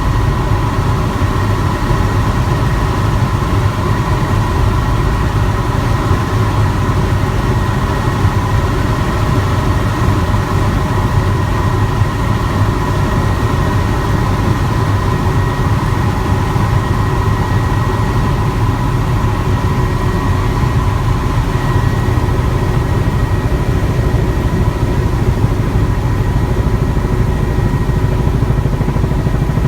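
Helicopter in flight: a steady low drone of rotor and engine, with an even high whine running through it.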